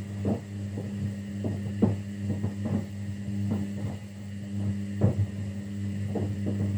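Kunft washing machine running a quick 15-minute 40° wash: a steady motor hum with irregular soft knocks and swishes, about one or two a second, as the wet laundry tumbles in the drum.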